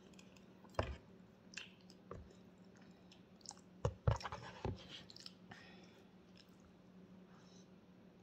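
Close-up chewing and biting with a few sharp crunches and mouth clicks, the loudest cluster about four seconds in, over a faint steady low hum.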